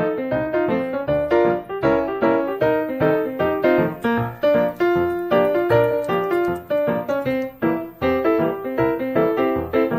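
Background piano music: a steady run of quick, separate notes.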